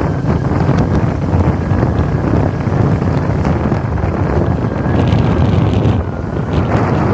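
Royal Enfield motorcycle engine and exhaust running steadily while riding, with wind buffeting the microphone.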